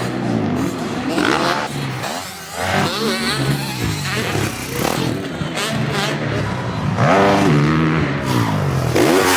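Motocross bikes' engines at full throttle off a practice start, the pitch climbing and dropping back again and again as the riders shift up through the gears.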